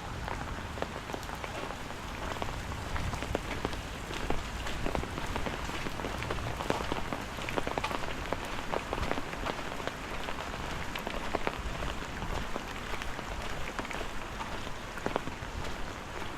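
Steady rain falling, with many separate sharp drop hits among the even hiss.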